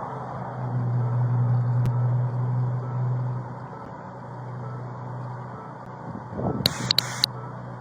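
A vehicle engine running with a steady low hum that grows louder for a few seconds about a second in, then settles. Two short, sharp crackling bursts come near the end.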